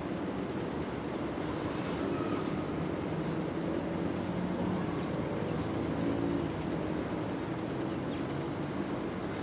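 Steady low drone of distant engines, a wavering hum over a haze of background noise.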